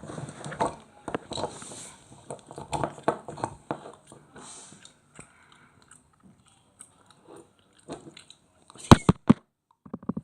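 German Shepherd puppy chewing and biting, a run of irregular crunching clicks that thins out, then a few sharp knocks near the end.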